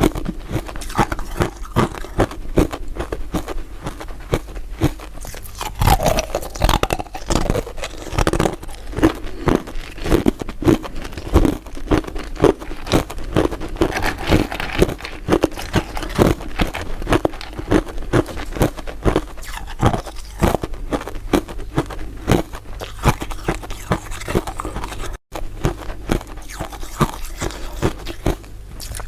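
Crunchy, translucent crystal-style dessert pieces being bitten and chewed close to the microphone: dense, irregular crunches and crackles, several a second, all the way through.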